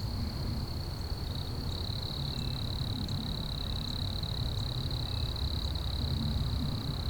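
Wind rumbling on the microphone, with one steady high-pitched whine held at a constant pitch throughout.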